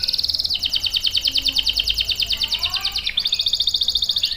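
Canary singing a fast rolling trill of rapidly repeated high notes, switching to a different roll about half a second in and again about three seconds in, with fainter lower chirps underneath.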